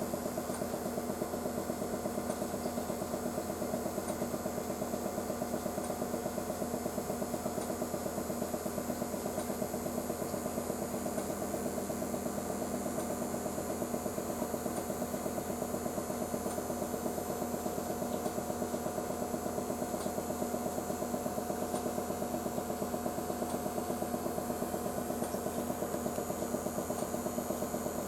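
A machine running steadily, a hum with a fast, even pulse that does not change.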